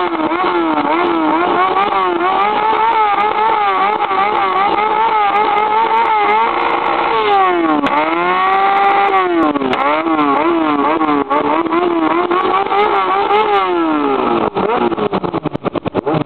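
Motorcycle engine revving hard, its pitch blipping up and down over and over, dipping and climbing again midway. Near the end the revs fall away and the engine settles into a rapid, uneven pulsing.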